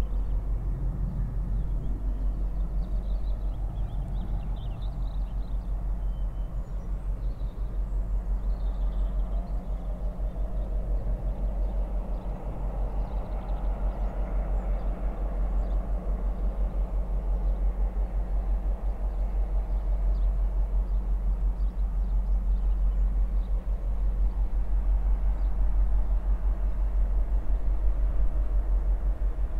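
Diesel freight train running through with a steady low rumble that swells a little in the middle. Small birds chirp faintly in the first few seconds.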